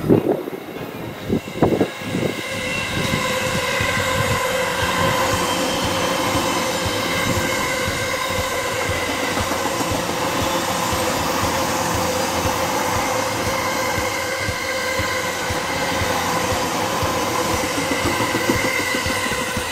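Electric commuter train passing close by: a steady rumble of wheels on rail with a sustained whine over it, and a few sharp clunks in the first two seconds.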